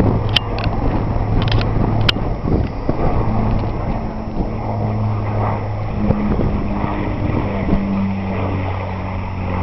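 Avro Lancaster bomber's four Rolls-Royce Merlin piston engines droning steadily overhead in a fly-by, the pitch of the drone shifting slightly as it passes.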